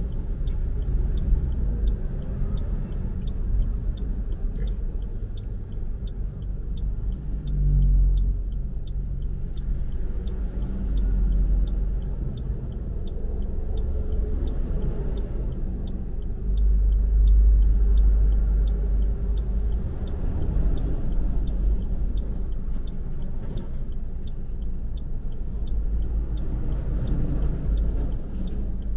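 Car driving on the road: a steady low rumble of engine and road noise that swells a few times, with a faint, regular high ticking about twice a second.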